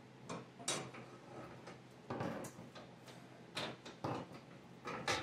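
Irregular metal clinks and knocks, about eight sharp ones spread over a few seconds, as a snow plow's steel connecting arm is worked around and fed into its mounting bracket.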